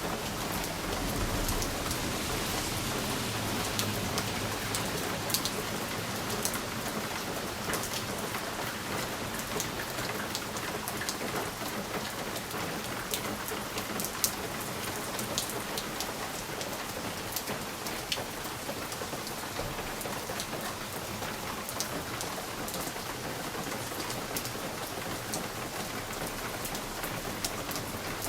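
Steady rain pattering on a window pane, with frequent sharp ticks of individual drops hitting the glass. A low rumble sits under the rain in the first few seconds.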